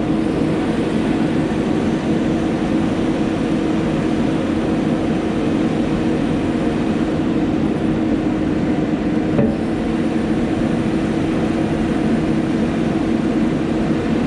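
Diesel engine of heavy logging equipment running steadily at a constant pitch, with a strong even hum.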